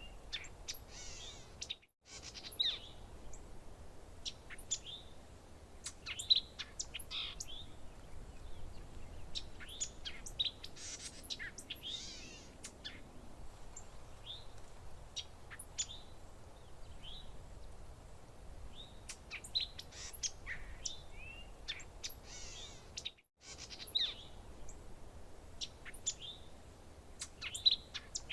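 Several songbirds chirping and calling in quick, overlapping short notes and rising and falling whistles. The sound cuts out completely for a moment twice, about two seconds in and again near the end.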